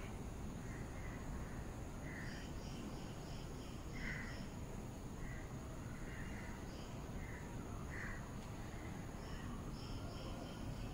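Birds calling: short calls repeated every second or so. Twice there is a quick run of higher chirps, about three or four a second, over a steady background hiss.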